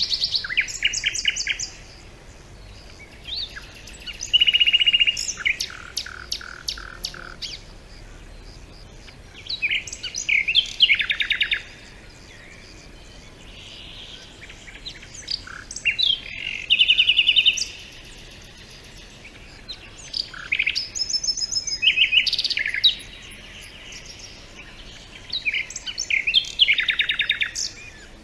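A songbird singing a series of varied phrases with fast trills, about one phrase every five seconds, with quiet gaps between.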